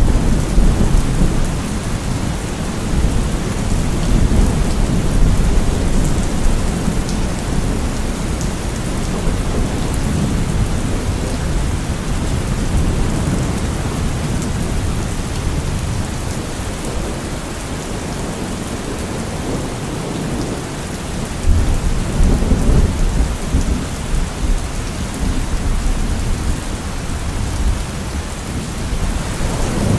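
Thunderstorm: steady heavy rain with low rolling thunder, the rumble easing in the middle and swelling again about two-thirds of the way through.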